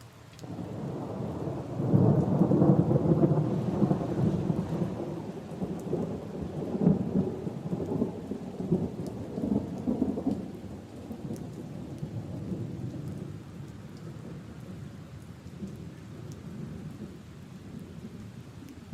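Rolling thunder over steady rain: a low rumble builds about half a second in, is loudest a couple of seconds later, then slowly dies away while the rain keeps falling.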